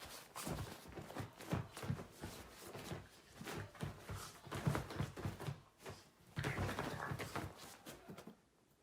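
Irregular knocks, taps and scuffs in quick runs, loudest in a dense stretch about three-quarters of the way in.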